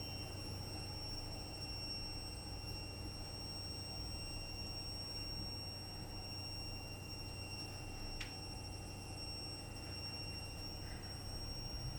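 Washing machine running in the background: a low, steady hum, with a faint, steady high-pitched whine over it.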